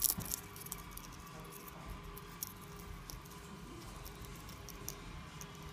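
Eclectus parrot nibbling popcorn with its beak: a cluster of sharper crunches right at the start, then scattered small clicks and crunches, over a faint steady hum.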